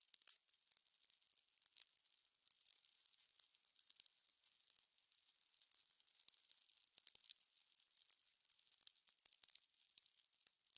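Fire crackling: irregular sharp pops and snaps over a soft steady hiss.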